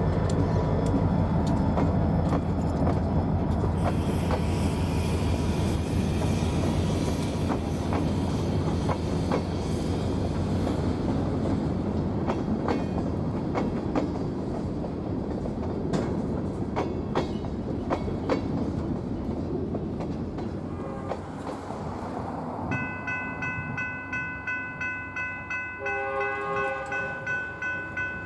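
A diesel freight train rolling past close by, engine rumble with the rapid clicking of wheels over rail joints. About two-thirds of the way through it cuts to a level-crossing bell ringing about twice a second, with a distant train horn sounding briefly near the end.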